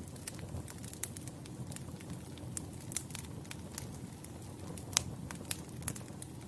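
Wood campfire burning, with a steady low rumble of flames and frequent sharp crackles and pops, the loudest pop about five seconds in.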